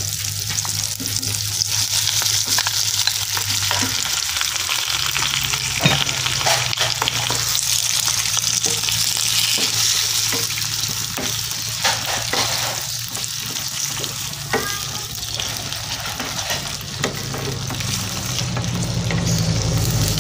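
Squid being stir-fried in hot oil with chili and tomato in a pan: a steady sizzle with frequent scrapes and knocks of a wooden spatula against the pan.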